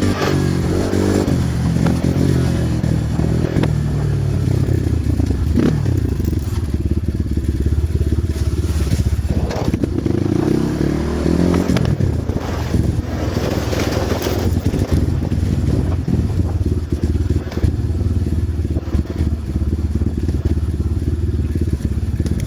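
Dirt bike engine running during a ride, its pitch rising and falling as the throttle is opened and closed, with a clear rev-up about halfway through.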